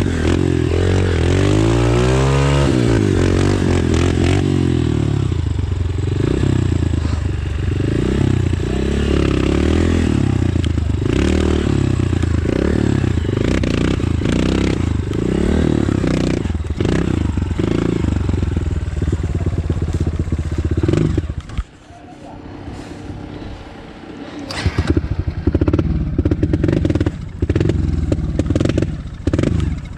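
A Yamaha YZ250 two-stroke motocross bike being ridden, its engine revving up and down over and over with clattering knocks. About 21 seconds in the engine drops to a much quieter low running for a few seconds, then picks up again with sharp knocks and clatter.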